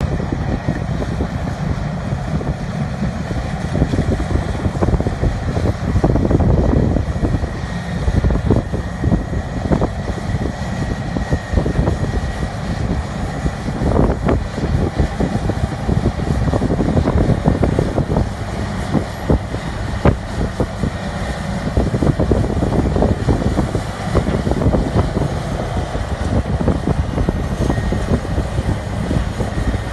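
Heavy diesel earthmoving machinery working: a Caterpillar D10 bulldozer and a CAT 631 wheel tractor-scraper, a loud steady low rumble with an irregular crackle throughout.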